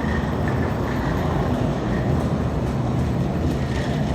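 Steady low rumble of a running engine, with faint low humming tones and no rise or fall.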